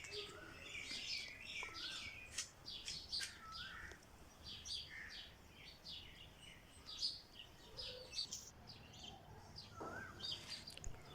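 Faint birds chirping outdoors, many short high calls with a few whistled, curving notes, going on throughout.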